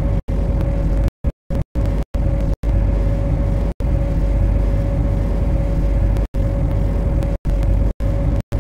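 Steady low rumble and a constant mid-pitched hum from an MTR C-Train electric multiple unit in operation. The audio cuts out for split seconds several times.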